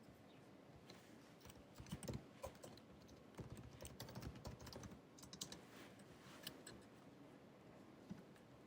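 Typing on the built-in scissor-switch keyboard of a 2019 16-inch MacBook Pro: faint, soft key clicks, in a quick run from about two seconds in to about five and a half, then a few scattered keystrokes.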